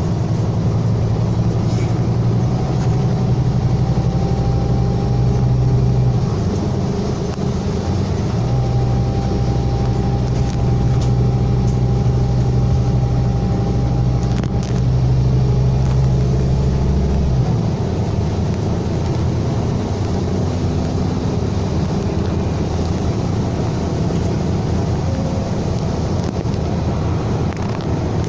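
Scania K320 bus's 9.3-litre DC9 five-cylinder diesel engine running steadily under load, with a faint high whine above it. The deep engine drone eases briefly about six seconds in and falls away about two-thirds of the way through as the load comes off.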